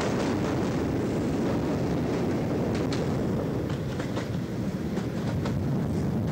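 A Hastings-line diesel-electric multiple unit running on the track, heard from a carriage window as a steady rumble. In the second half, a few sharp clicks come as the wheels pass over rail joints and pointwork.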